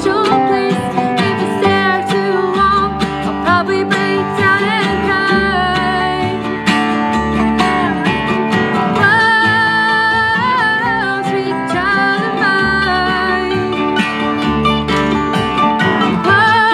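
A band playing a country-style song, with acoustic guitar over a steady bass and a wavering melody line sung above it.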